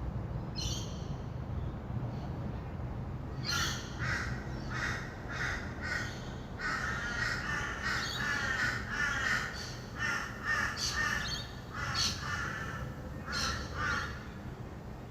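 Rainbow lorikeets calling in a long run of short, harsh screeches, starting about three and a half seconds in after one brief call at the very start. Under them runs a steady low hum of distant traffic.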